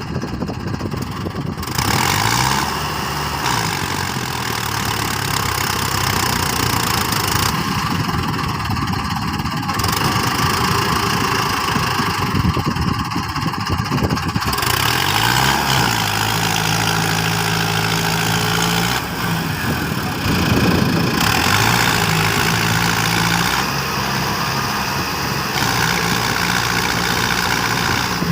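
Mahindra Arjun 555 DI tractor's diesel engine running under load, revving up and settling back several times as it strains to pull a stuck tractor free.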